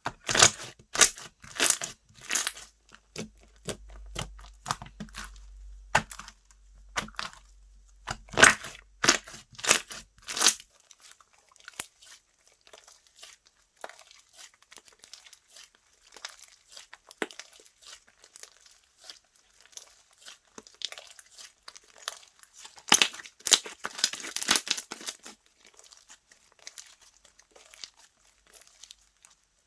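Slime being worked by hand, giving a quick run of sharp clicks and pops for about the first ten seconds. Softer scattered crackling follows, with another loud burst of crackles about three-quarters of the way through.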